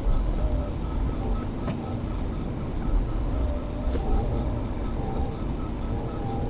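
Cat 730 articulated dump truck's diesel engine running with a steady low rumble, over a light, even ticking about three times a second from its four-way hazard flashers.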